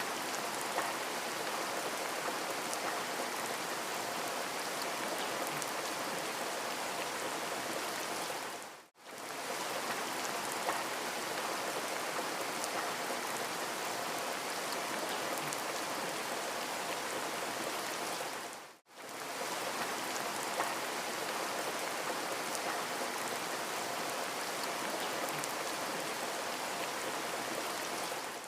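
Steady rain falling, an even hiss of many drops. It fades out and back in within a second or so twice, about ten seconds apart, at the seams where the rain recording loops.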